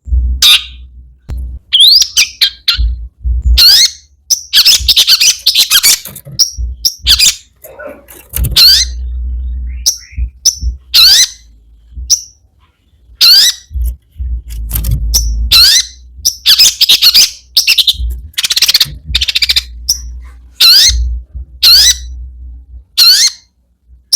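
Long-tailed shrike singing in a loud, busy run of short, sharp calls and chattering phrases, many of them quick rising notes. This is the 'gacor' song with mimicked phrases ('isian') that keepers play as a lure to get silent shrikes singing.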